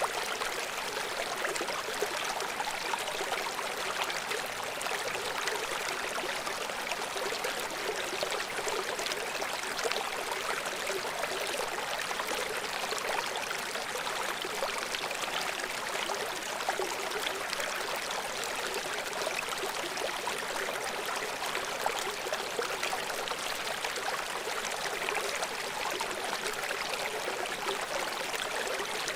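River water flowing and splashing over rocks below a waterfall: a steady rushing hiss with fine, irregular splashes and trickles.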